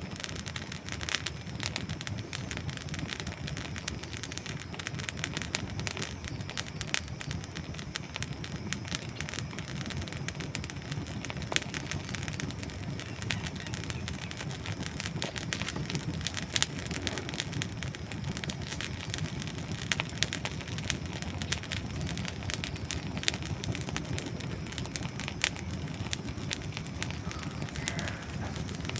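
Wood fire burning with a steady low rush, and dry wood crackling in irregular small snaps and a few louder pops.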